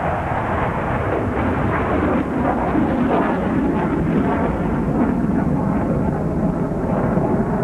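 Loud, steady engine noise from a military jet making a low, high-speed pass while pulling about 6.5 G.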